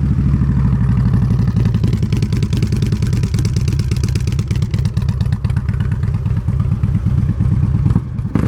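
2009 Harley-Davidson Street Glide's Twin Cam V-twin running loud through aftermarket Rinehart exhaust pipes, with a steady, rapid pulsing exhaust note; the bike carries a stage 1 kit with high-volume air intake.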